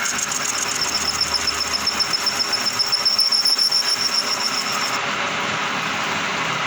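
High-pitched squeal from a lathe cutting tool against a spinning stainless steel plate, pulsing several times a second over the lathe's running noise, and breaking off about five seconds in.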